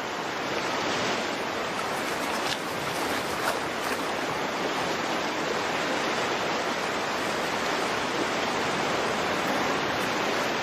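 Rushing stream water, a steady, unbroken rush.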